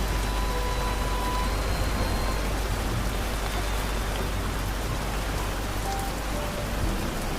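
Steady rain falling, an even hiss with no letup. Faint, soft held musical tones sound under it.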